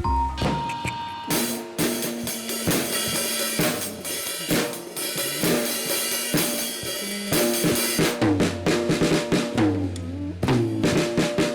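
A drum kit being played: bass drum and snare hits in a steady beat, with cymbal wash, over other music with held pitched notes.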